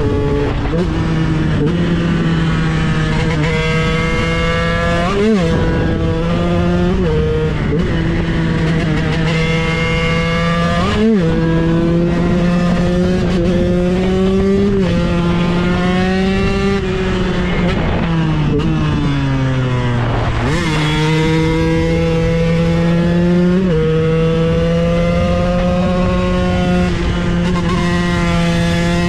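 KTM 125 EXC supermoto's two-stroke single-cylinder engine running hard at high revs, its pitch dipping and climbing again and again as it changes gear. About two-thirds of the way through the revs fall away for a couple of seconds, then snap straight back up.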